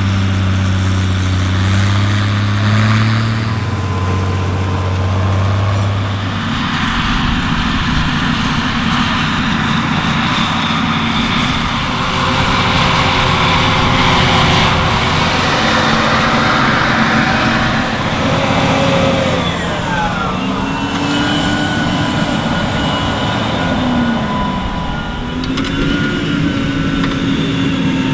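Large farm machinery engines running, their pitch rising and falling several times over the second half.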